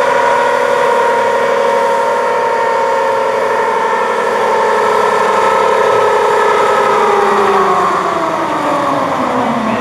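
A motor-driven pitched drone held steady at high pitch, then winding down slowly in pitch over the last few seconds.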